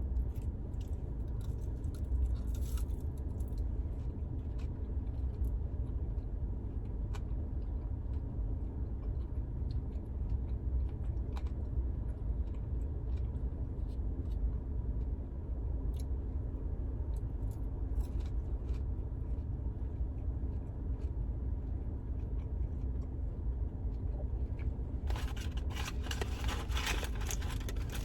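Someone eating in a car: chewing and small clicks of handling food over the steady low rumble of the car's interior. A louder crinkling rustle comes near the end.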